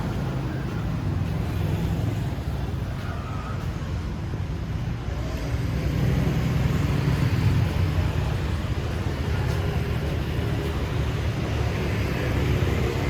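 Street traffic noise: a steady low rumble of passing motor vehicles, swelling for a couple of seconds about halfway through.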